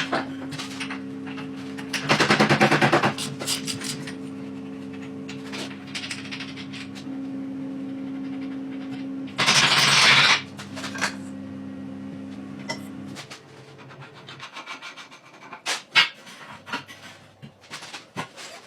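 A steady machine hum that stops about two-thirds of the way through. Two loud hissing bursts, each about a second long, come over it, along with scattered clicks and knocks.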